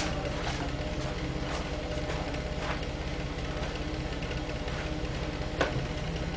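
Citroën C5's 3.0 V6 petrol engine idling steadily, breathing out through a used exhaust taken from a 2.2 HDi diesel model.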